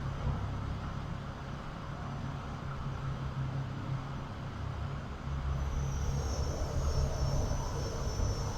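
Steady low mechanical drone of the Hakone Ropeway's running machinery, with a high whine joining about five and a half seconds in.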